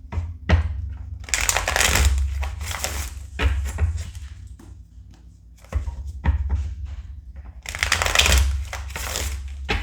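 Tarot cards shuffled by hand, two long bursts of card rustling with small taps and clicks of handling between them.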